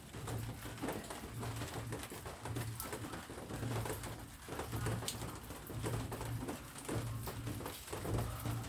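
Dove cooing repeatedly in low, evenly spaced notes, over a scatter of sharp ticks like rain drops pattering.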